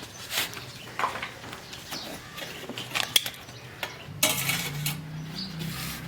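Metal utensils knocking and scraping against a cooking pot, in scattered separate clinks with a sharp knock about halfway through and a longer scrape near the end. A steady low hum starts about two-thirds of the way in.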